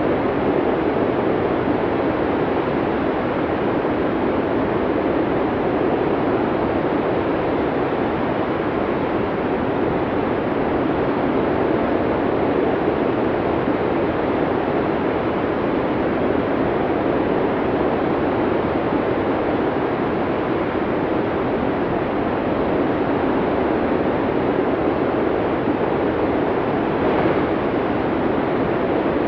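Wind of a heavy snowstorm blowing hard and steadily, a dense even rush with no lulls and a slight swell near the end.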